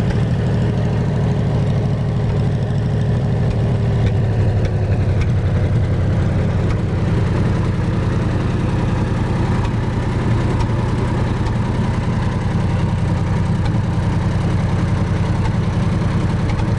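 Wisconsin VF4 air-cooled V4 engine of a 1947 Lincoln 200 amp pipeliner welder running steadily, driving its welding generator.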